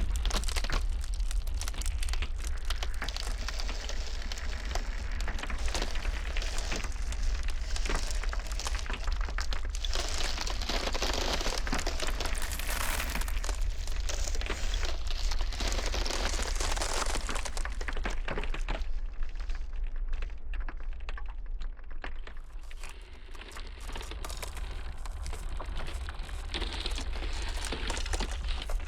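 Iceberg ice cracking in a dense, continuous run of small cracks and crackles over a steady low rumble of blizzard wind. The crackling thins out for a few seconds about two-thirds of the way in, then picks up again.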